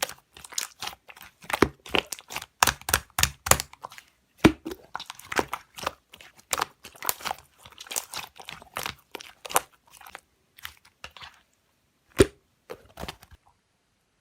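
Hands squishing and poking a chewy milk slime, making a quick run of sharp wet clicks and pops. They thin out about eleven seconds in, with one loud pop near the end, and stop shortly before the end.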